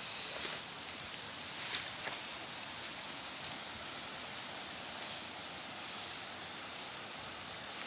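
Steady rushing noise of falling water from a waterfall, with a short rustle at the start and another about two seconds in.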